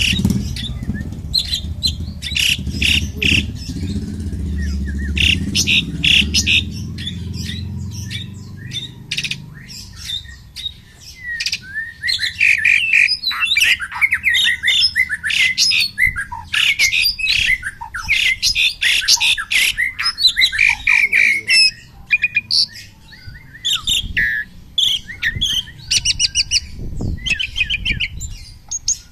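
Caged songbirds, an Asian pied starling and a murai batu (white-rumped shama), calling and singing against each other: rapid harsh chattering strokes at first, then loud, fast whistled warbling phrases. A low engine rumble underneath fades out in the first ten seconds.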